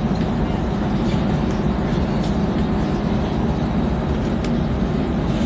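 X10 electric commuter train running: a steady low rumble of motors and wheels on the track, with a few faint clicks.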